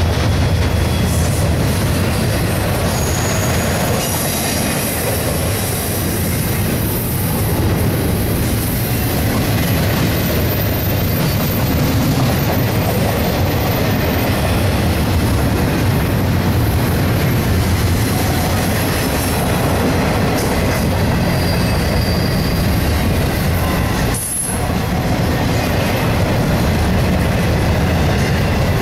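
Double-stack intermodal container cars rolling past at speed. Their steel wheels make a steady loud rumble and clickety-clack on the rails, with faint high wheel squeals at times.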